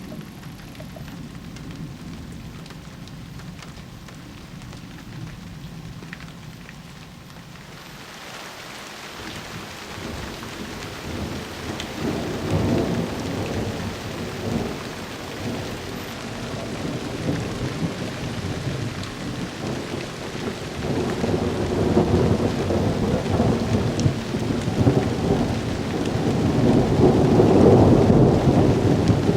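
Long rolls of thunder in a night thunderstorm over falling rain. The rumble builds from about a quarter of the way in and swells in several waves, loudest near the end.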